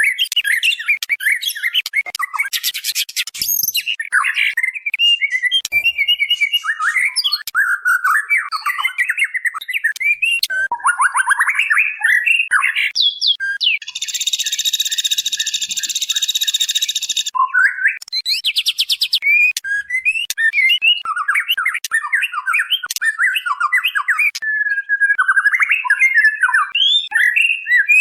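Female white-rumped shama (murai batu) calling, used as a lure to draw a male: continuous quick phrases of whistles and chatter, with fast rattling trills twice and a harsh buzzing call of about three seconds midway.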